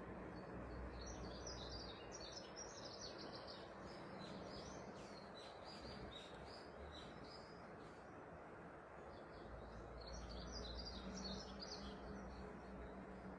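Birds chirping in quick runs of short high notes, in two bouts, over a steady faint hiss.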